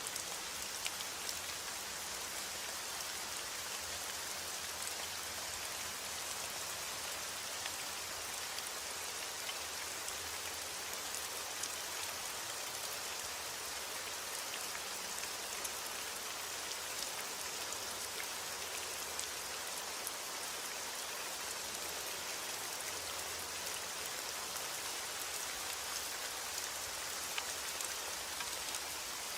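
Steady heavy rain falling, a dense even hiss with scattered sharp drop ticks.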